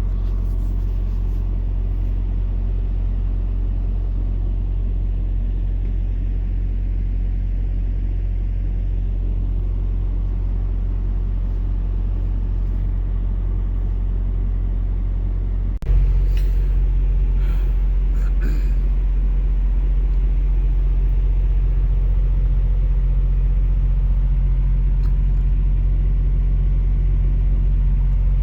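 Steady low drone of a semi-truck's diesel engine and road noise heard inside the cab. About 16 seconds in it switches abruptly to a louder, deeper drone, with a few clicks just after.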